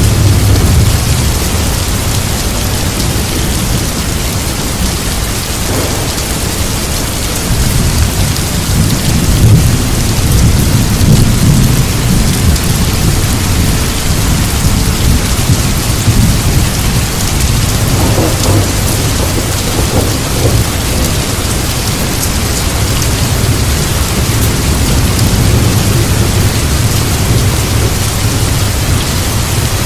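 Recorded thunderstorm: steady heavy rain with low rolling rumbles of thunder, swelling loudest about a third of the way in.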